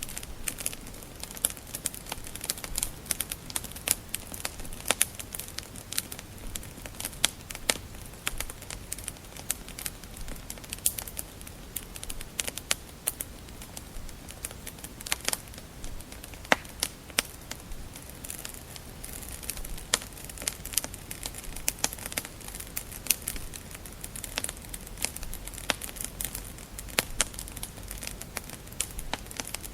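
Wood fire crackling in a fireplace: frequent sharp, irregular pops and snaps over a soft steady hiss.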